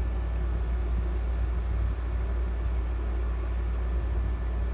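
Steady low hum, with a cricket's continuous high-pitched chirping pulsing evenly above it.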